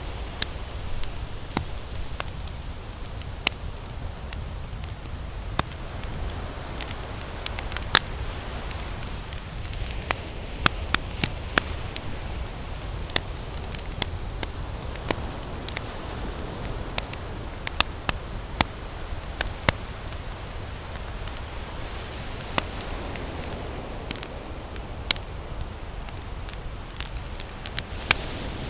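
Campfire crackling, with sharp irregular pops over a steady low rumble.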